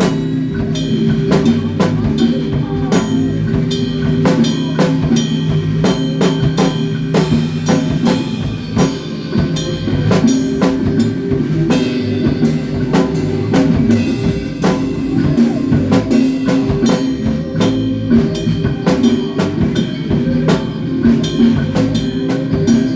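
A band playing in rehearsal: a drum kit keeps up a busy, steady rhythm of kick and snare over sustained low notes.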